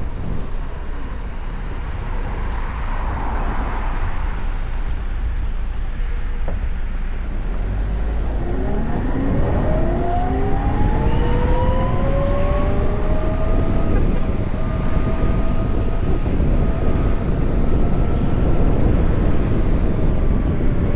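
Electric motorcycle riding with wind rushing over the microphone and road rumble. About eight seconds in, the electric motor's whine rises in pitch as the bike speeds up, several tones climbing together, then holds steady.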